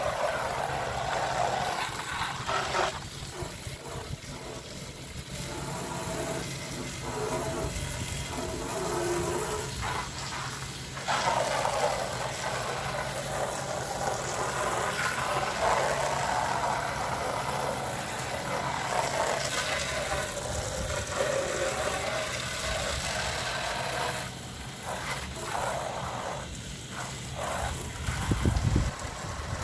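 Water from a hose-end sprayer on a garden hose hissing and splattering against the house siding and door in uneven surges, over the steady hum of a running air-conditioner unit.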